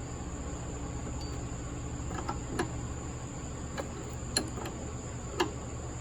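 A few light clicks and taps, about five spread over several seconds, from small parts and hand tools being handled on the workbench, over a steady high-pitched whine and low hum.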